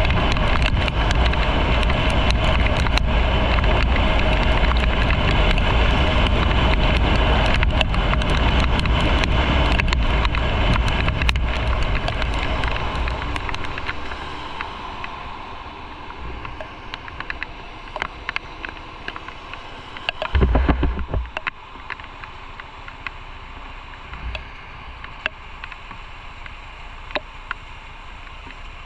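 Motorcycle riding with heavy wind noise on the mic, easing off about halfway through as the bike slows, leaving quieter road noise with scattered clicks and a brief loud gust about two-thirds in.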